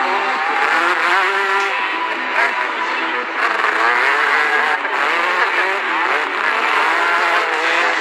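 Several 100–125cc trail motorcycles racing together, their engines revving up and down continuously and overlapping.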